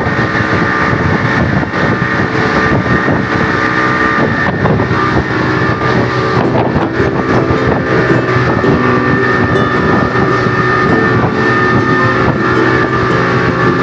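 Motorboat engine running steadily at a constant speed, an even hum with a whine above it.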